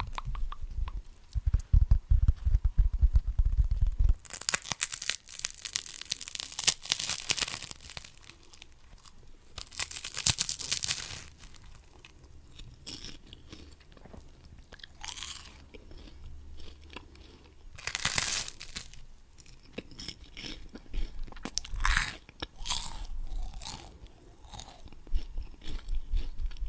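Close-miked eating: crunchy bites and chewing in irregular bursts, with several loud crackly stretches of crunching and low thuds near the start.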